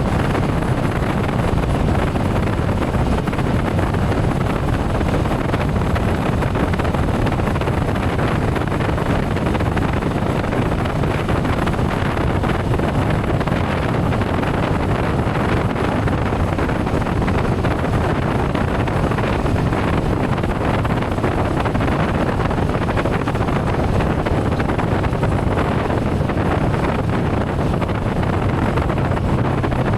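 Motorcycle on the move at steady speed: constant wind rush buffeting the microphone over the bike's engine and tyre noise.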